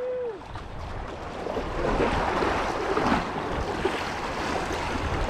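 Water sloshing around a jet ski with wind noise on the microphone, swelling about two and three seconds in.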